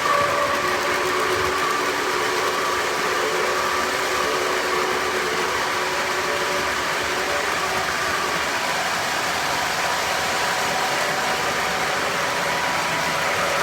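Model trains running on ceiling-mounted track: a steady rolling rumble of wheels on rail, with a few faint steady tones above it.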